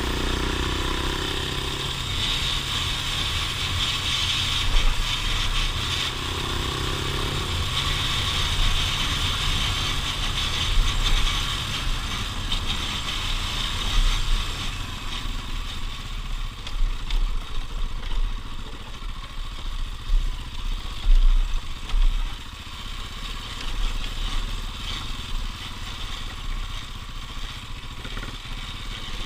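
Off-road vehicle engine running steadily on a dirt trail, with clatter and knocks from the rough ground. The engine is louder for about the first half, then softer, with a few short loud jolts.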